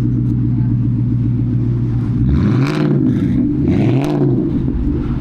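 Car engine idling, then revved twice in quick blips, about two and a half and four seconds in, the pitch rising and falling each time before it settles back to idle.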